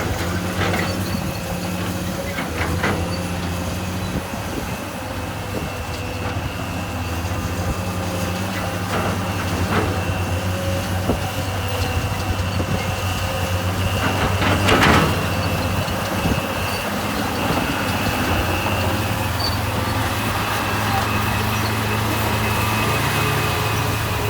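Diesel engine of heavy earthmoving equipment running steadily with a low hum and a thin high whine, with a few short metallic clanks and the loudest knock about 15 seconds in.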